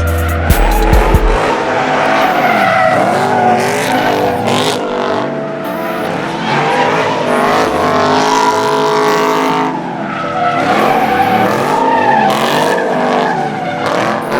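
Car engine revving hard, its pitch repeatedly climbing and falling, over a steady tyre squeal, as in a burnout or donuts.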